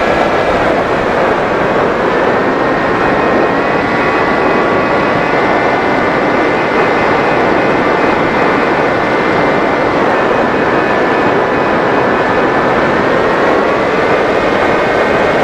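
Electric motor and propeller of a Mini Drak RC flying wing whining over a steady rush of wind. The pitch drops about a second in, climbs a couple of seconds later, drops again about ten seconds in and climbs back near the end.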